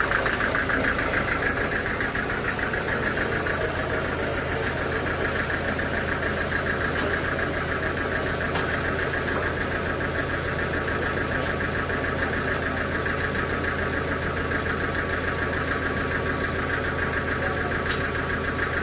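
Sawmill machinery running steadily, an engine-driven hum with a constant higher whir and no change in load.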